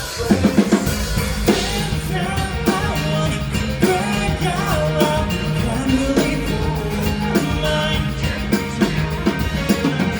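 Live band playing a rock song: drum kit, bass and a sung or played melody, coming back in at full level right at the start after a short drop.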